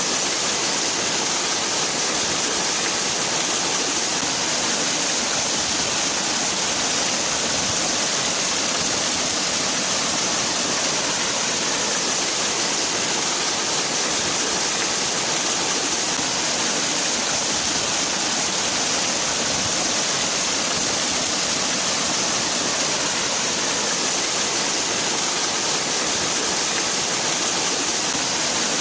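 Waterfall: falling water splashing in a steady, unbroken hiss-like rush, strongest in the high range.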